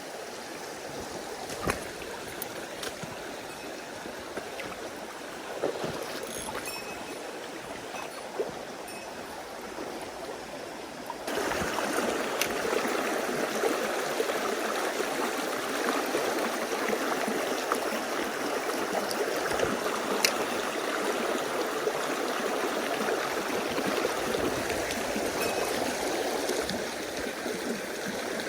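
Mountain stream water rushing steadily over rocks, growing suddenly louder about eleven seconds in, with a few isolated sharp clicks or knocks.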